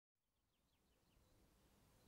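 Near silence fading in to faint birdsong: a few quick descending chirps over a low outdoor hum.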